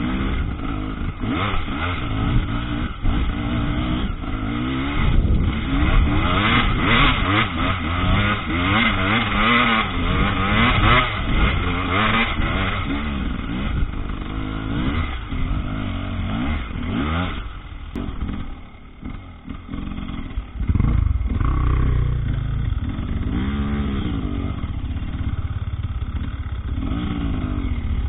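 Two-stroke Husqvarna TE300 enduro motorcycle engine being ridden, its revs rising and falling constantly with the throttle. It drops quieter for a couple of seconds about two-thirds of the way through, then picks up again.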